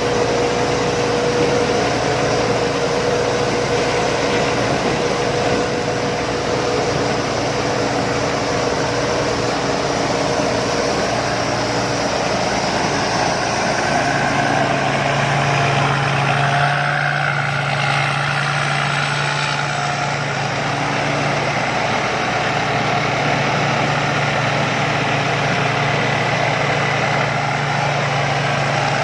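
Rice combine harvester engine running steadily; its note shifts once, about halfway through.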